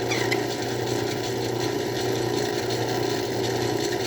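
Craftsman 109 bench lathe running steadily with a 1/2-inch drill bit in the work, as the bit is backed out of the hole at full depth.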